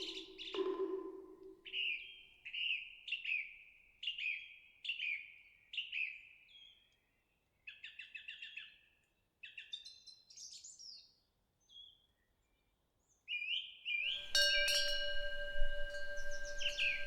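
Small birds chirping in a run of short, repeated, downward-sliding calls. About 14 seconds in, a temple wind bell (pungyeong) rings out with long, steady tones as the birdsong goes on.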